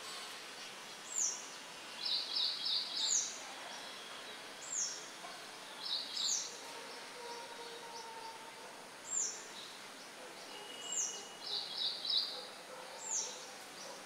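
Small songbirds calling: a sharp, high note that slides downward, repeated about seven times at uneven intervals, and three short bursts of rapid chirps, over a steady background hiss.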